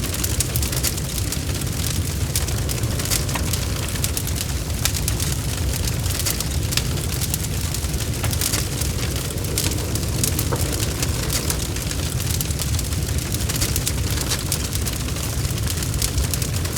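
Log fire burning in a fireplace: a steady low rumble of flames with frequent sharp crackles and pops from the burning wood.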